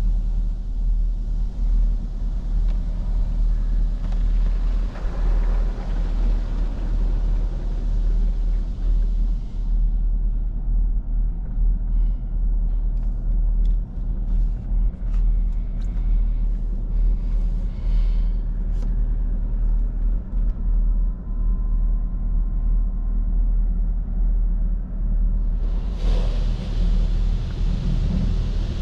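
Chevrolet Camaro 2SS's 6.2-litre V8 idling with a steady low rumble, heard from inside the car. Over it, the car wash hisses against the car for the first ten seconds or so and again near the end, with scattered light ticks and patter in the quieter stretch between.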